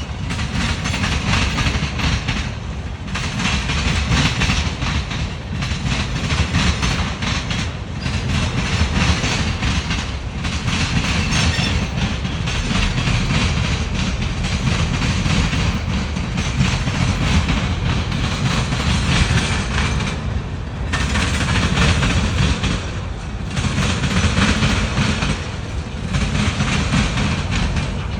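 CSX freight train's cars rolling past slowly, a steady rumble with wheels clattering over the rail joints; the sound dips briefly about every two and a half seconds in a regular rhythm.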